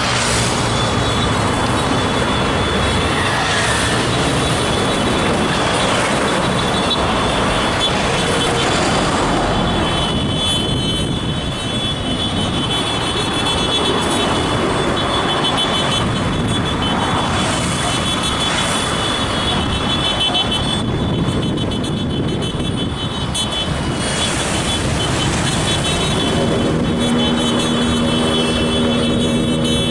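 Motorcycle engines and street traffic running steadily and loudly. Near the end comes a held, horn-like pitched tone.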